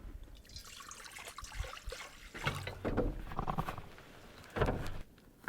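Water splashing and sloshing in a few irregular bursts, the last and loudest a little over four and a half seconds in.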